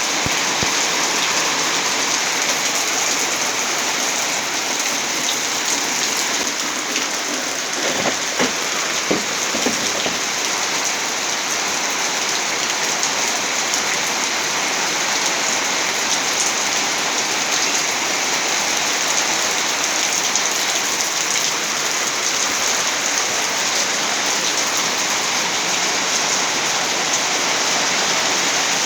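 Steady, loud rain falling, with a few short knocks about eight to ten seconds in.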